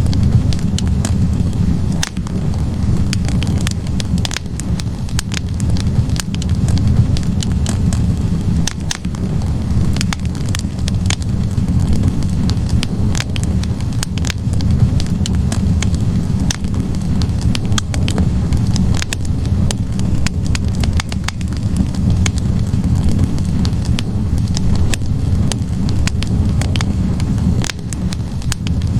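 Wood logs burning in a fireplace: many sharp, irregular crackles and pops over a steady low rumble of the flames.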